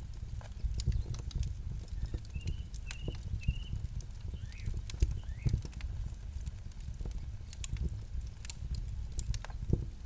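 Campfire crackling, with irregular sharp pops and snaps over a low, steady rumble of burning. About two seconds in, a bird gives three short chirps, with a few fainter calls after them.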